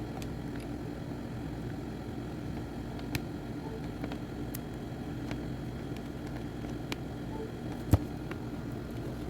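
A steady low hum with a few faint, scattered clicks and one sharper tap about eight seconds in.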